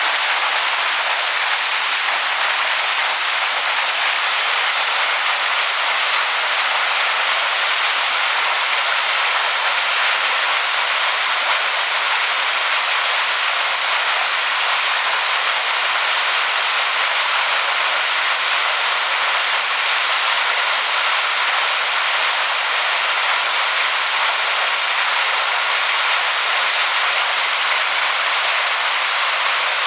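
Waterfall rushing over stones: a steady, even hiss of falling water, bright with little low rumble.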